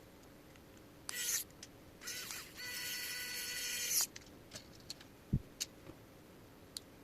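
Small motorized screwdriver driving M2 screws into a 3D-printed plastic bearing mount: a brief whir about a second in, then a steadier two-second whir that stops abruptly. A few light clicks and one dull knock of parts being handled follow.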